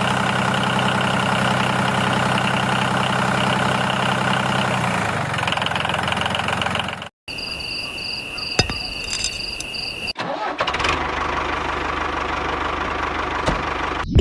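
Miniature model diesel engine running steadily. About halfway through the sound cuts out, and a steady high whine follows for a few seconds, then a rougher mechanical running noise.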